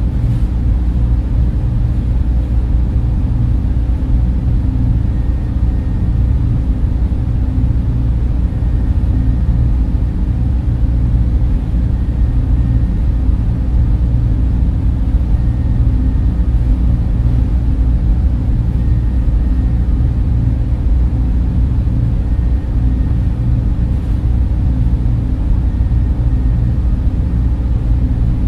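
Server room ambience: many cooling fans running together in a steady, deep hum that never changes.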